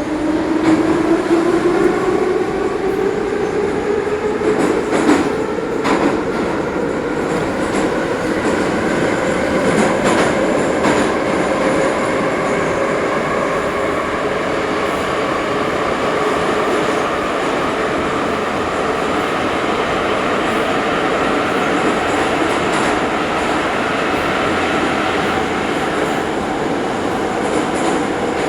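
Ezh3 metro train pulling out of a station: the traction motors' whine rises in pitch over the first several seconds as it accelerates, then settles into steady running noise with a few clacks from the wheels on rail joints.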